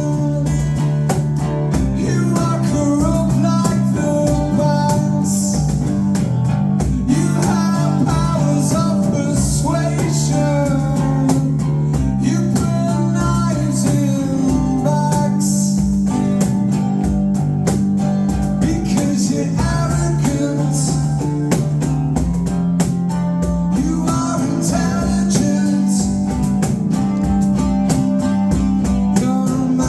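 A live band playing a song, with guitars and bass guitar and some singing.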